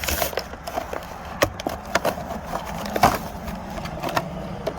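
Packaging being handled as a diecast monster truck toy is pulled out of its box: scattered small clicks, taps and crackles, a sharper tap about three seconds in, over a steady low hum.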